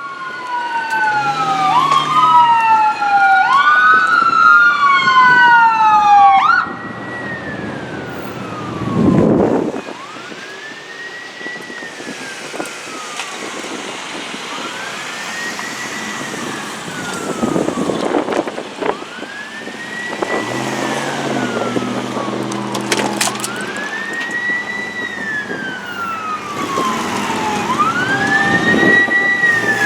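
Emergency vehicle sirens from an ambulance and a fire engine. For about the first six seconds two sirens sweep rapidly up and down over each other; after that a single wail rises and falls slowly, one cycle every four to five seconds.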